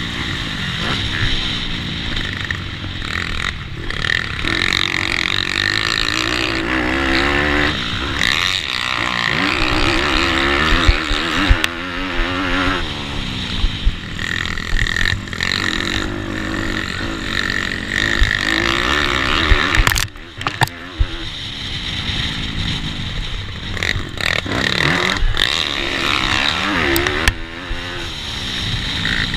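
Pitbike engines revving hard through the gears in a race, pitch climbing and dropping again and again.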